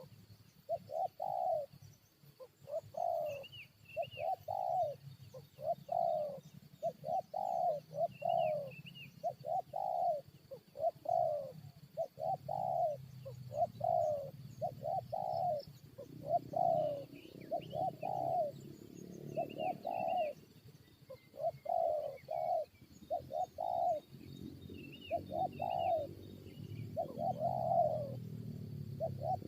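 Spotted doves cooing in repeated phrases of short, low coo notes, a caged decoy and a wild dove calling back and forth in a territorial contest. Faint chirps of small birds sound higher up.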